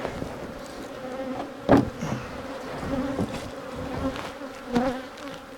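Honeybees buzzing in a steady, agitated hum around an opened, freshly split hive. A sharp knock sounds about a second and a half in.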